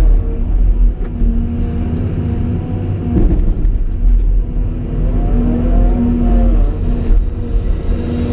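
CAT 349E excavator's diesel engine running with a steady drone, its pitch swelling up and back down about five seconds in as the machine is worked.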